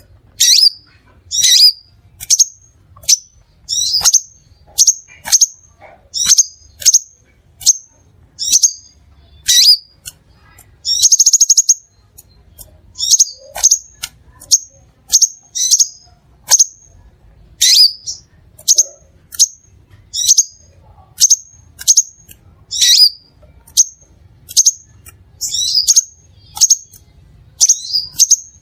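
Crimson sunbird (Aethopyga siparaja) singing: a long run of sharp, high-pitched chirps, about one or two a second, with a longer buzzy trill about eleven seconds in.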